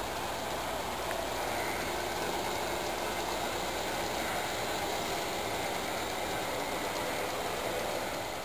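A model train running steadily along its track, with an even rolling and motor noise.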